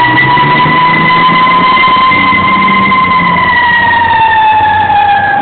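Fire engine siren wailing loudly, its pitch holding high and then sliding slowly down near the end, over the low rumble of the fire truck's engine.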